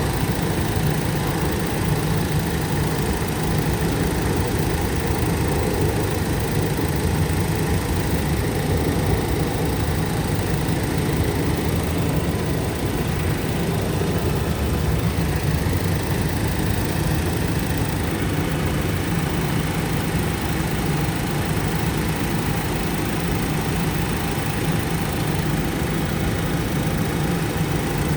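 Car engine idling steadily while its cooling system is burped of trapped air after a coolant flush.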